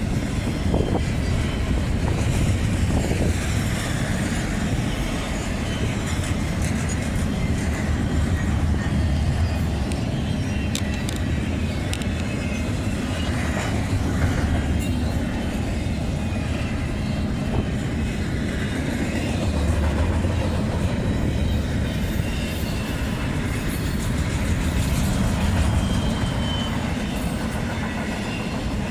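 Double-stack intermodal freight train rolling past as it crosses over to another track: a steady, continuous rumble of wheels and cars, with scattered sharp wheel clicks over the rail joints and switch.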